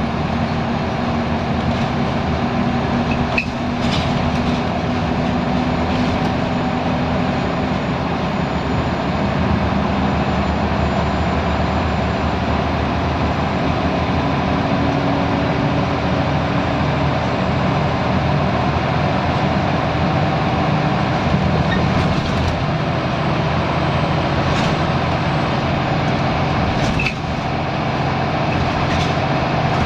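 Scania L94UB Wright Solar single-deck bus heard from on board while under way: a steady engine drone with a few brief rattles and knocks from the body.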